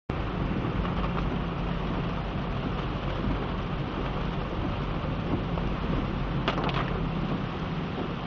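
Rain falling steadily: a continuous hiss with a low rumble underneath and a short cluster of clicks about six and a half seconds in.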